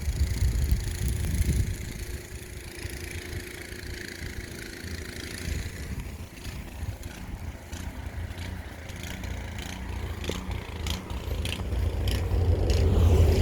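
Gasoline snowblower engine running, growing louder near the end, with a run of short scraping clicks in the last few seconds.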